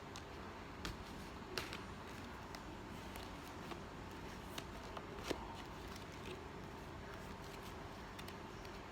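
Faint handling noises: light rustling with a few scattered sharp clicks and taps, over a low steady room hum.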